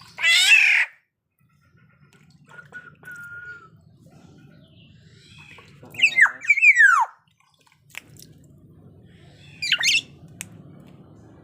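Black-naped oriole giving harsh, nasal squawking calls: one loud call at the start, two falling calls about six seconds in, and a shorter one near the end.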